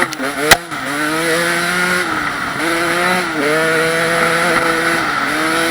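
KTM 250 dirt bike engine running under load, its pitch climbing, dropping sharply and climbing again several times as the rider works the throttle and gears. A sharp knock about half a second in.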